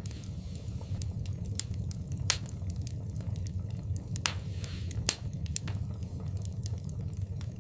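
Wood fire in a fireplace crackling over a low steady rumble, with irregular sharp pops, the loudest about two and five seconds in, and a brief hiss between them.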